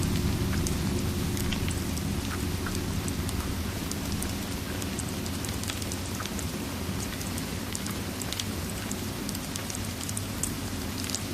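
Ambience mix of steady rain with scattered sharp crackles of a fireplace over a low rumble, which eases off over the first few seconds.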